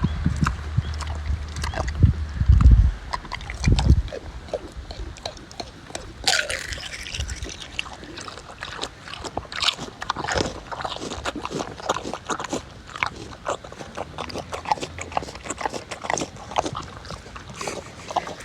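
Pigs chewing and crunching eggs, with a dense run of irregular wet clicks and crackles. The first few seconds hold low rumbling thumps.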